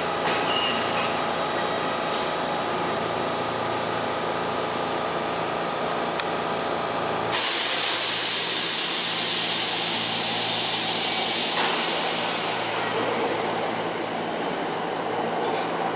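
Electric commuter train standing at an underground station platform: a steady hum with many fixed tones. About seven seconds in this gives way abruptly to a louder hiss that slowly dies down.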